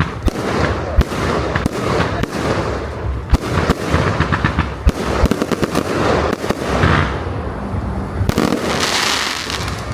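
A fireworks display: a rapid barrage of bangs and crackling shell bursts, with a long fizzing crackle near the end.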